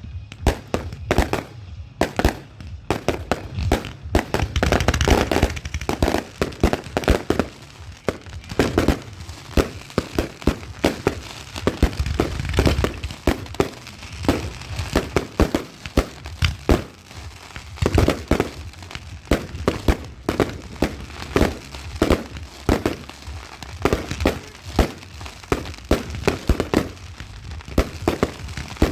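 Fireworks display: a rapid run of bangs from shells and shots with crackling, densest in the first several seconds, then separate bangs a few times a second.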